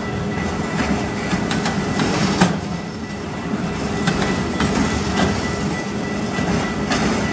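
Autorack freight cars rolling past: a steady rumble of steel wheels on rail, with irregular sharp clicks as the wheels cross rail joints.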